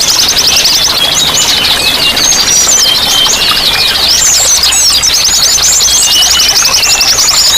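A dense chorus of small songbirds: several birds chirping, with rapid trills and short whistles overlapping throughout, over a steady wash of running water.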